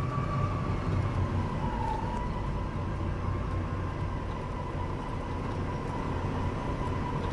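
Volvo B9R coach on the move, with a steady low engine and road rumble. Over it runs a thin, continuous squeaky noise that wavers slightly in pitch.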